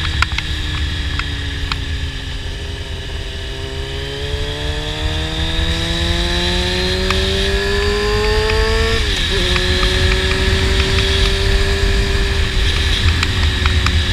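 Honda CBR600 sport bike's inline-four engine through an aftermarket slip-on exhaust, under way with wind rumble on the helmet microphone. The revs ease slightly, then climb steadily for several seconds under acceleration, drop sharply at an upshift about nine seconds in, and settle to a steady cruise.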